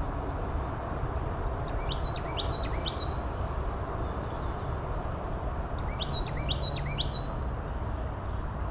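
A songbird singing two short phrases, each of three quick rising notes, about four seconds apart, over a steady low background rumble.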